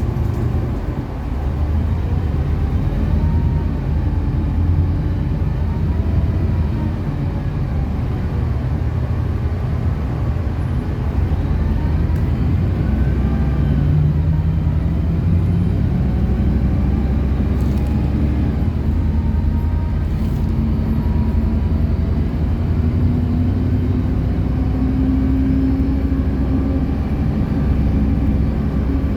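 City bus engine running as the bus drives, its note rising and falling; near the end it climbs steadily as the bus gathers speed.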